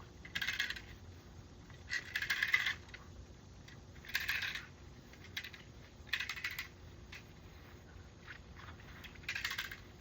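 Short bursts of light metallic jingling and clinking, five in all, coming every second or two.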